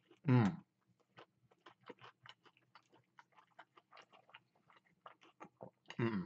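A man chewing a mouthful of crispy fried chicken sandwich, with many small crunches and mouth clicks. A short hummed 'mm' comes just after the start, and another near the end.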